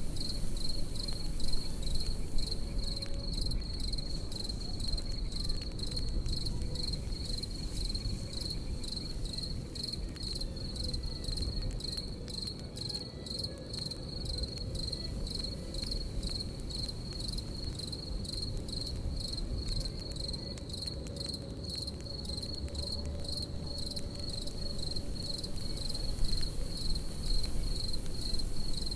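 Crickets chirping in a steady, high-pitched pulsing trill over a crackling campfire that pops in sharp little clicks, with a low rumble of burning underneath.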